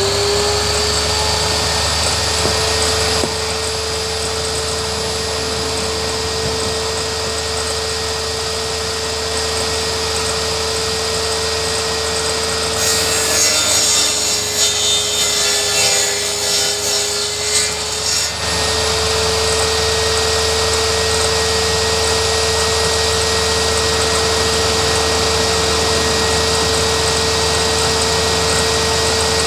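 Table saw running with a steady whine, just reaching full speed at the start. Partway through it cuts through wood for about six seconds: a rough, uneven sawing noise, with the blade slowing slightly under the load. It then returns to running free.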